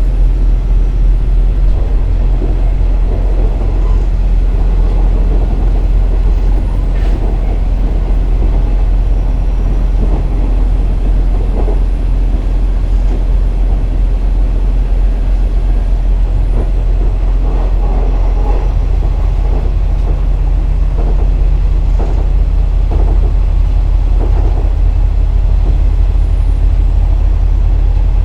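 KiHa 47 diesel railcar running along the line: steady diesel engine drone with rail rumble and scattered knocks from the wheels. The engine note changes about two-thirds of the way through.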